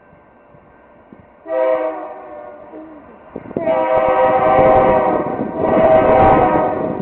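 BNSF diesel freight locomotive's multi-chime air horn: a shorter blast starting about a second and a half in, then a longer, louder blast from about three and a half seconds, with the rumble of the approaching train rising under it.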